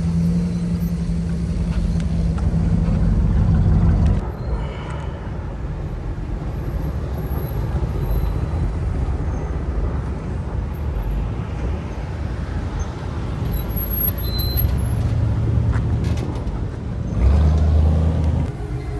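Classic cars and trucks driving past with engines rumbling. One low-pitched engine is loud for the first four seconds, then drops away. Another swells past near the end.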